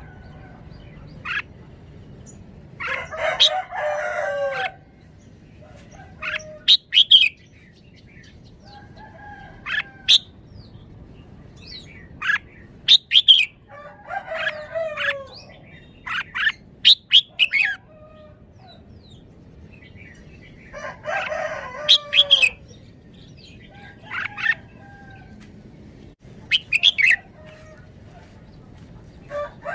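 Red-whiskered bulbul singing: short, sharp whistled phrases repeated every few seconds, with pauses between them.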